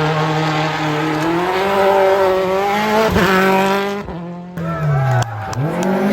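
Rally car engine at high revs, its pitch climbing, then cutting away about four seconds in with a few sharp pops. The revs fall, then climb again near the end.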